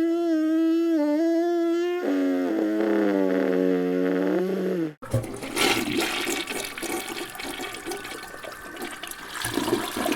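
A long, wavering howl-like tone dropping lower about two seconds in, then, after a sudden cut about five seconds in, a toilet flushing with rushing water.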